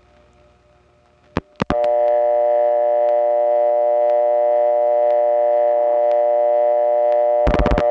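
Step-by-step telephone exchange line: a couple of clicks, then a loud steady dial tone made of several tones together from a number one step office. Near the end, a quick run of rotary dial pulses cuts the tone off as the first digit, 3, is dialed.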